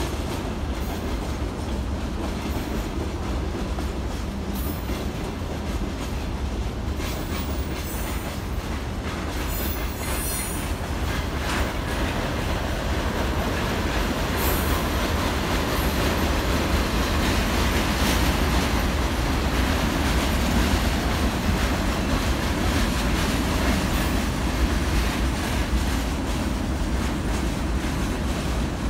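Freight train wagons rolling past: a steady rumble of steel wheels on the rails, with clicks as the wheels cross rail joints. It grows somewhat louder in the second half.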